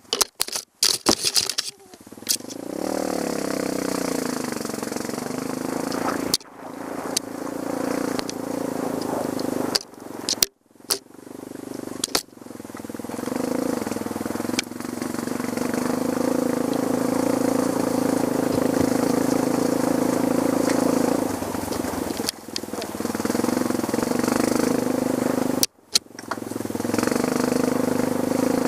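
Trail motorcycle engine running under load at fairly steady revs, its pitch wavering up and down, with scattered clicks and rattles. The sound cuts out sharply and briefly several times, around 6, 10, 12 and 26 seconds in.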